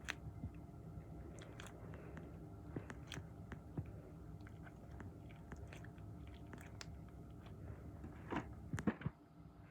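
Squishy foam toys squeezed and handled close to the microphone for ASMR: scattered faint crackles and clicks, with two louder handling sounds near the end.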